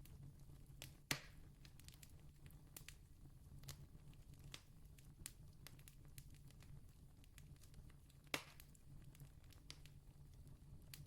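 Wood campfire crackling faintly: scattered small ticks and two sharper pops, about a second in and about eight seconds in, over a faint steady low rumble.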